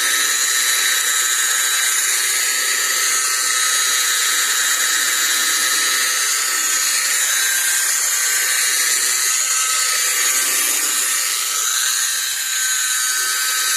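Electric car polishing machine running steadily with a constant high whine.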